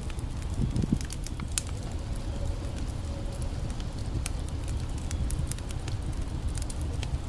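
Campfire crackling and popping, with sharp snaps scattered through, over the steady low rush of a creek. A dull knock comes about a second in.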